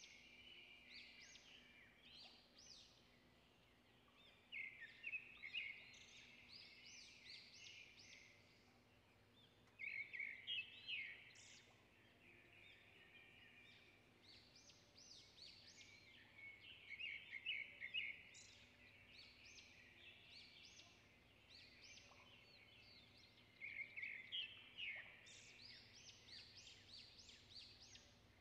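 A songbird singing faintly in four bursts of quick, high chirping notes, a few seconds apart, with softer chirps in between.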